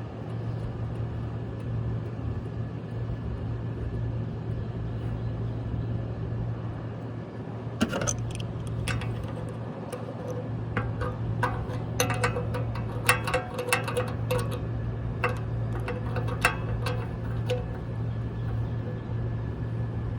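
Irregular metal clinks and taps from a condenser fan blade being worked onto a replacement fan motor's shaft and snugged down, starting about eight seconds in, some with a short metallic ring, over a steady low hum.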